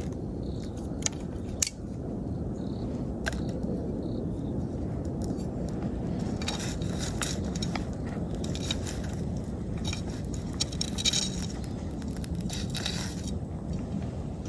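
Wood bonfire crackling over a steady low rush of burning. A few sharp pops come in the first few seconds, then a dense run of crackles from about six seconds in until near the end.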